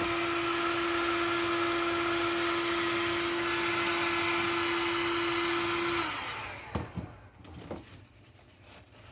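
Heat gun blowing with a steady whir and hum, switched off about six seconds in and winding down, followed by a few light knocks.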